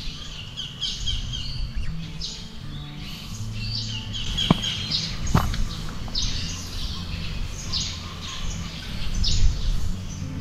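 Birds chirping in short, repeated calls over a low steady rumble, with two sharp clicks near the middle.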